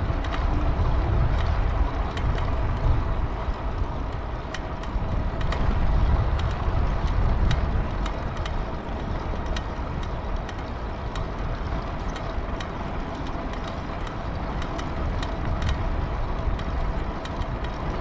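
Wind rumble on the microphone and rolling tyre noise from a moving pedal-assist electric bicycle, with a faint steady whine and scattered light clicks and ticks.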